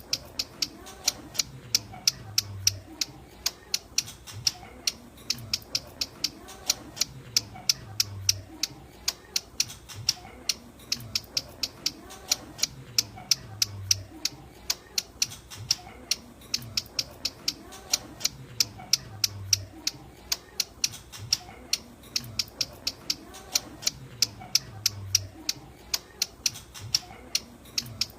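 Ciblek gunung calling: a fast run of sharp, high ticking notes, several a second, going on without a break in a repeating loop. This is the bird's typical call, used to lure the birds.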